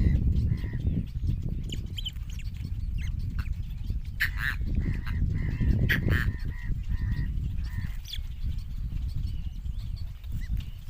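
Chicks of a fish-eating bird calling: a string of short, repeated calls, loudest about four and six seconds in, over a steady low rumble.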